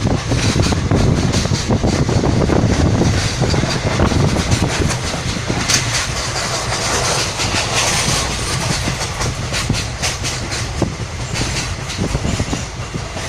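Moving train heard from on board: the steady rumble and rattle of the carriages, with the clickety-clack of wheels over the rail joints. It eases slightly toward the end.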